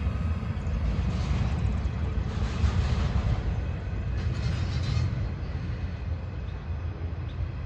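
Steady low rumble of a vehicle in motion, with a noisy hiss above it.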